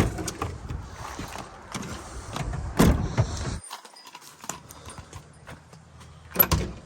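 Handling noises: a few sharp knocks and clunks, with scattered clatter and rustling between them.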